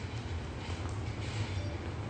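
Steady low rumble inside a car cabin, with a faint hiss and a few light clicks.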